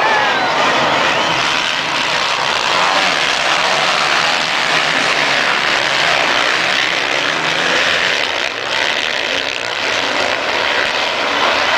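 Motocross dirt-bike engines running and revving on a race track, a continuous dense engine noise with pitch rising and falling as the bikes accelerate.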